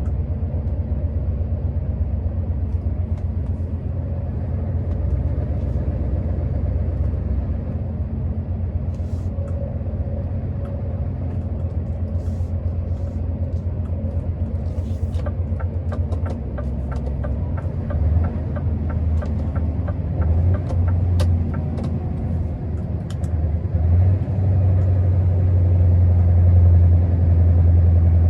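Scania R650's 16-litre V8 diesel engine running on the road, a steady low drone that grows louder near the end. In the middle a run of light, evenly spaced ticks, about three a second, lasts some six seconds.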